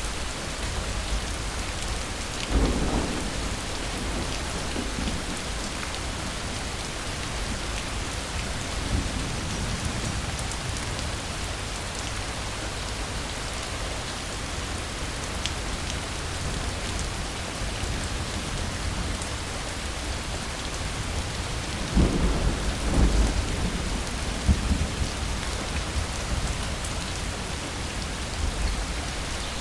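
Steady rain falling, with thunder rumbling low twice: briefly about two and a half seconds in, and longer and louder a little past the twenty-second mark.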